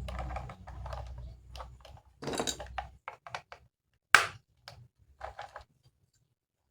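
Plastic toy parts being handled and clicked together: a run of small clicks and knocks over a low rumbling handling noise, then one loud, sharp snap about four seconds in.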